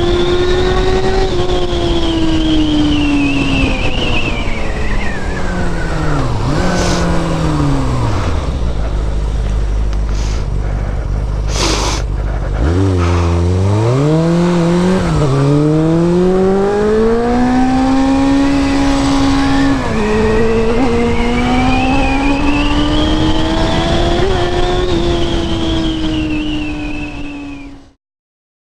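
A vehicle engine at high revs during a chase: its pitch sinks over the first eight seconds to a low steady drone, with a couple of sharp clicks, then climbs back and holds high before the sound cuts off suddenly near the end.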